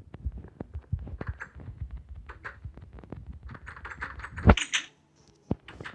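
Handling noise: a run of irregular clicks, taps and rustling, with a loud thump about four and a half seconds in and two more knocks near the end.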